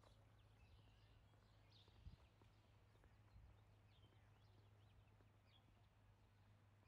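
Near silence, with small birds chirping faintly: many short, quick chirps scattered throughout.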